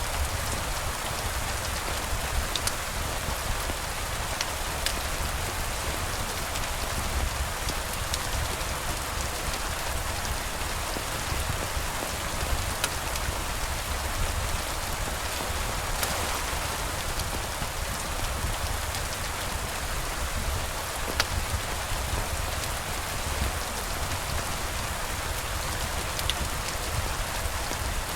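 Steady rain falling on surfaces, an even hiss with a low rumble beneath and a few scattered sharp ticks.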